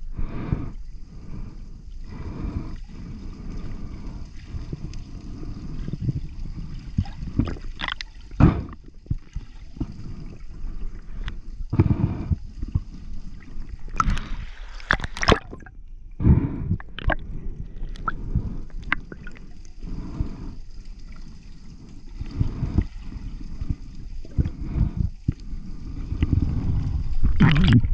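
Underwater sound picked up by a camera in its housing: sloshing water and a low rumble, with scattered sharp clicks and knocks.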